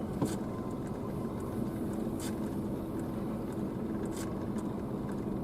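Diesel locomotive running steadily during a switching move: a low, even rumble with a few faint clicks.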